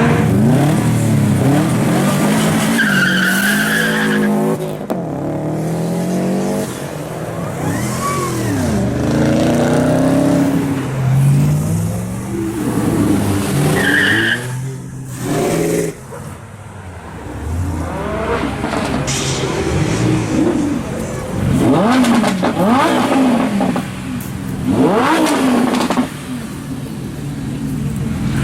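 Performance car engines revving hard, the pitch climbing and dropping again and again through gear changes, with a couple of short tire squeals.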